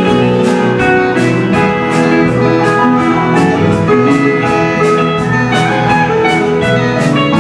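Live band playing an instrumental passage of the song: guitar over a steady drum beat, with no singing.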